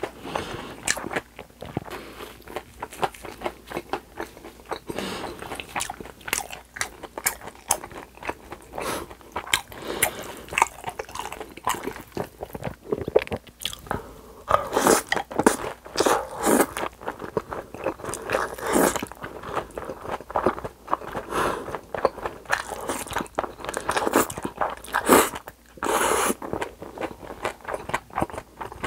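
Close-miked chewing and biting of crunchy deep-fried breaded pork cutlet and shrimp tempura, with crisp crackling crunches. Spicy cold buckwheat-style noodles (bibim-naengmyeon) are slurped and chewed along with them, mostly around the middle.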